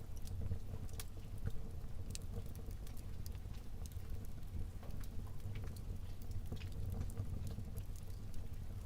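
Wood fire burning in a fireplace: a low steady rumble of flames with scattered sharp crackles and pops from the burning logs, several a second.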